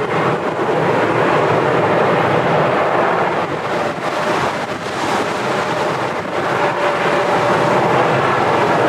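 Jet airliner engines running with a steady whine over a dense, continuous rush of noise, with strong wind buffeting the microphone.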